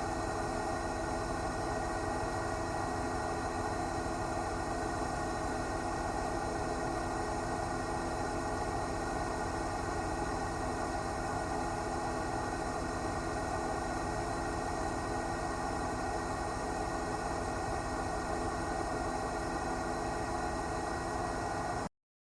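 Steady drone of a news helicopter picked up on board, rotor and engine noise with a constant multi-tone hum, cutting off abruptly near the end.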